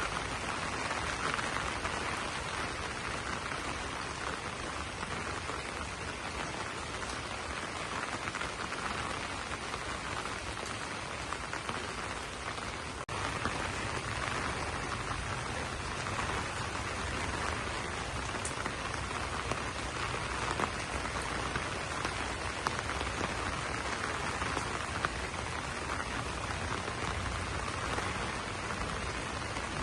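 Steady rain falling on banana leaves: a dense, even patter of drops.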